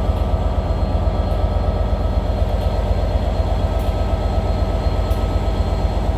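Train running close by: a loud, steady heavy rumble with a steady hum above it, unchanging throughout.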